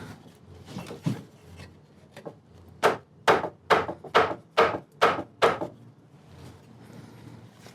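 Soft rawhide mallet striking a wooden chair frame at a mortise-and-tenon joint. A couple of light knocks come first, then seven quick, sharp strikes about two a second.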